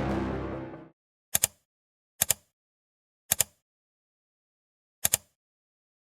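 Background music fading out, then four sharp double clicks at uneven intervals, each a pair of quick ticks, with silence between them.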